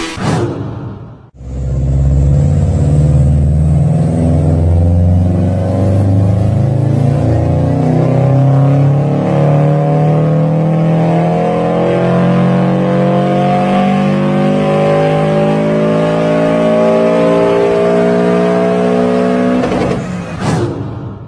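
Car engine pulling under acceleration, its pitch climbing slowly and steadily for about eighteen seconds. It follows a brief cut about a second in and fades out near the end.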